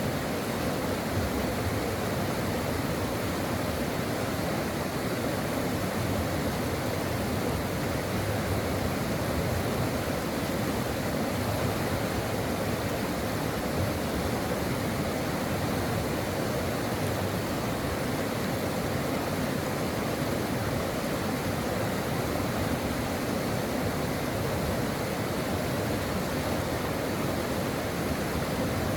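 Brook water flowing steadily: an even, unbroken rush of running water.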